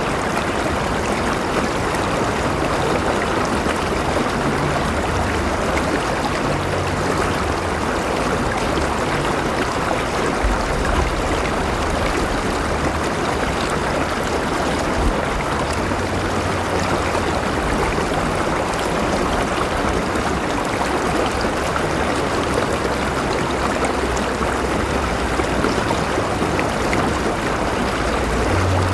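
River water flowing steadily over rocks, an even rushing with a low rumble underneath.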